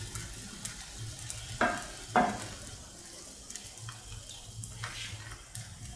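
Semolina pancake batter (rava dosa) sizzling on a hot pan, with light ticks. Two short knocks come about one and a half and two seconds in.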